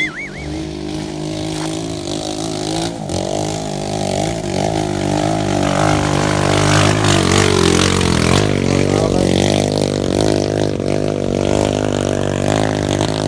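A motor vehicle engine running continuously, its pitch wavering up and down as the revs change.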